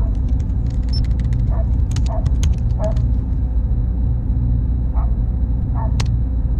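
Steady low rumbling background noise, with scattered sharp clicks and several short, higher-pitched calls over it.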